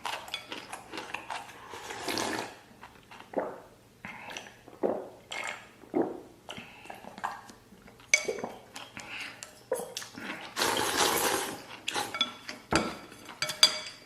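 Close-up eating sounds: utensils clinking against a bowl and dishes, with wet slurping of noodles and broth between them.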